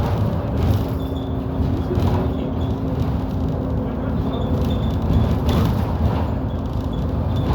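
A bus in motion, heard from inside: the engine and drivetrain run with a steady low hum under continuous road rumble, the hum settling into a held note just after the start.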